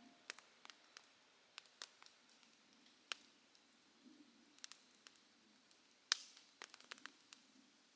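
Campfire crackling softly: scattered sharp ticks and pops at irregular intervals, with one louder pop about six seconds in.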